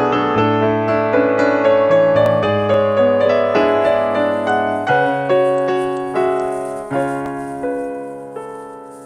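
Background piano music with sustained chords; in the second half the notes become sparser and fade away toward the end.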